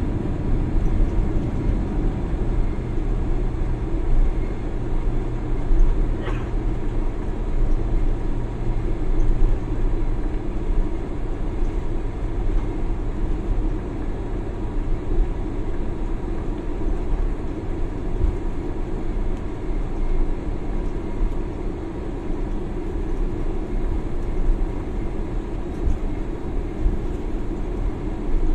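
Steady low rumble inside a jet airliner's cabin as it lands at the airport. A low hum underneath drops away about ten seconds in.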